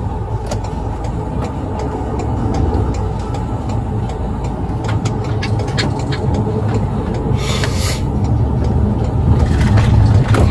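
Steady low rumble of a vehicle in motion, with scattered clicks and a short hiss about seven and a half seconds in.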